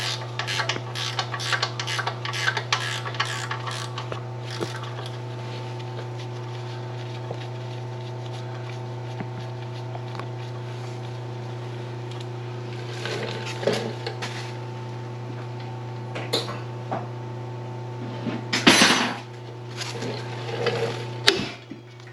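A hand tool worked in quick rhythmic strokes, about three a second, during the first few seconds, over a steady machine hum. Then come scattered metal clanks, with one loud knock near the end, while a brake is worked loose.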